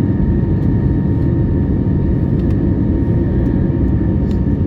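Airbus A321neo in flight, heard inside the passenger cabin: a steady, loud rumble of engine and airflow noise with a constant whine from the engines above it.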